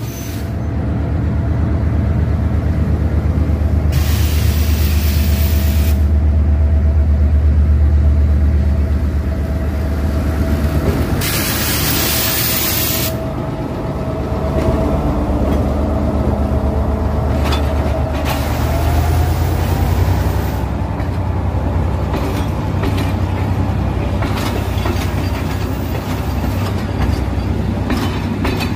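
A diesel locomotive passing close by at the head of a passenger train: a heavy engine rumble, loudest in the first third, with two bursts of hissing air about four and eleven seconds in. Later the coaches roll past, their wheels clacking over the rail joints.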